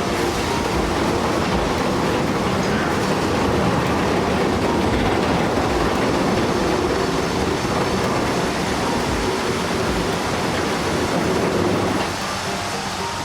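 Loud, steady rumble and rattle of a heavy vehicle, easing off about a second before the end.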